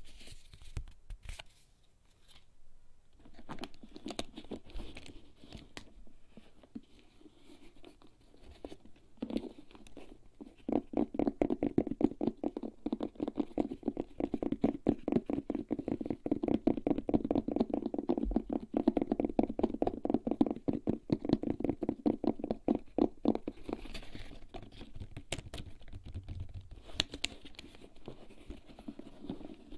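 Fingernails scratching on an object from a bag's contents, then rapid, even fingertip tapping for about twelve seconds, then looser scratching and taps again.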